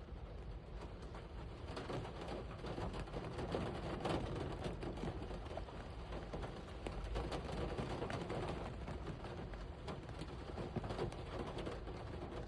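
Heavy rain falling, a dense patter of drops that swells a little louder a few seconds in and then eases.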